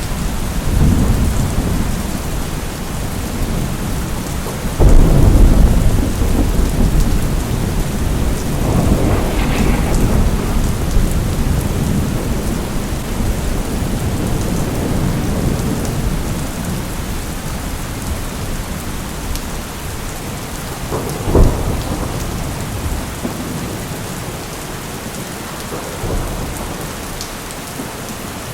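Steady heavy rain with rolling thunder: a sudden loud thunderclap about five seconds in that rumbles on for several seconds, a further rumble swelling a few seconds later, and a short sharp crack of thunder past the twenty-second mark.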